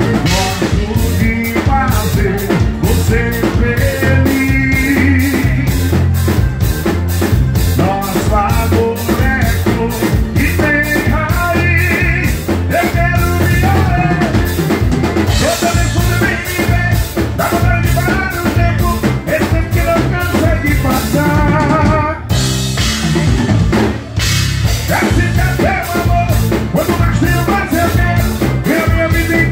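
Live forró band playing an instrumental passage: a drum kit with bass drum, snare and rimshots keeps a steady, fast beat under melodic instrument lines. The music breaks off for a moment about two-thirds of the way through, then comes straight back in.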